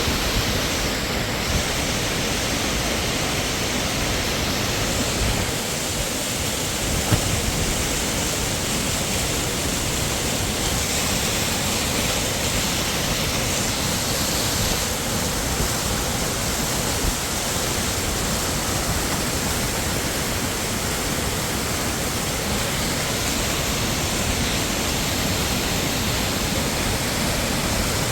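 Waterfall: a steady, even rush of falling water, with a brief knock about seven seconds in.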